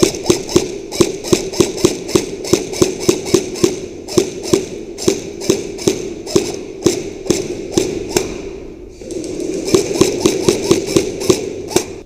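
Footsteps of an airsoft player running, with gear rattling, about three hard steps a second, easing off briefly twice.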